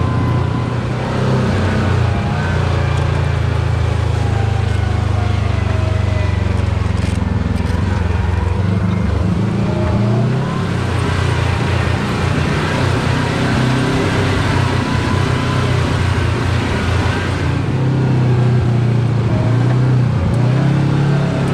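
Side-by-side UTV engine running steadily as the machine drives along a dirt trail, a loud low drone that rises and falls a little with the throttle.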